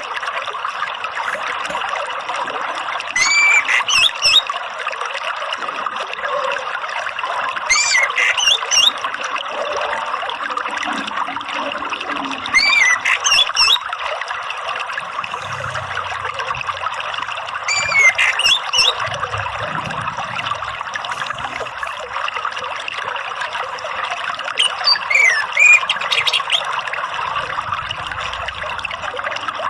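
Steady running water, like a small stream or trickle. Over it an orange-headed thrush gives short sweeping calls every four to five seconds, as a lure to get a caged thrush singing.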